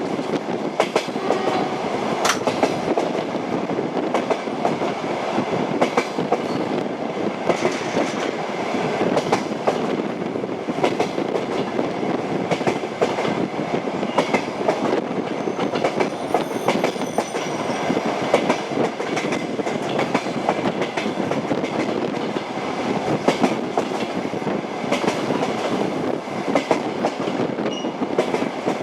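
Train wheels running over the rails at speed: a steady rumble with the clickety-clack of the wheels striking the rail joints.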